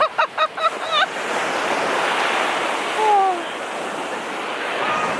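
Ocean surf washing onto the beach with wind buffeting the microphone. A quick run of short high-pitched calls sounds in the first second, and a single falling call comes about three seconds in.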